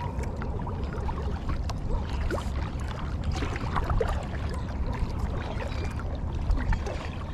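Water lapping and trickling against a Crescent Primo kayak's hull, over a steady low rumble, with scattered small clicks and knocks.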